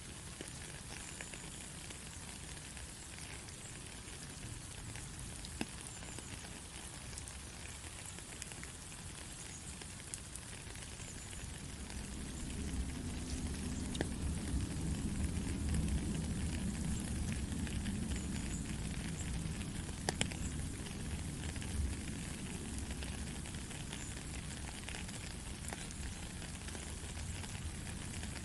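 Steady rain: an even hiss with scattered sharp drop ticks. About twelve seconds in, a low rumble swells up and stays, making the rain sound heavier and fuller.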